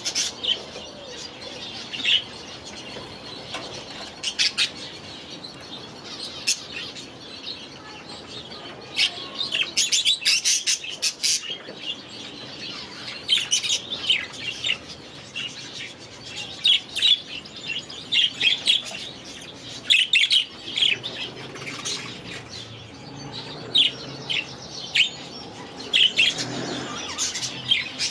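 A flock of budgies chirping and chattering, with many short high calls overlapping, busiest in the middle stretch.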